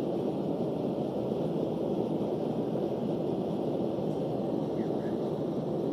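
Forge running with a steady rushing noise as a horseshoe heats in the fire to brazing heat, melting copper wire under the jar calks.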